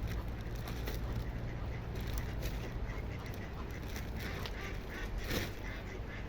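Ducks giving short scattered quacks, one louder call about five seconds in, over a steady low rumble.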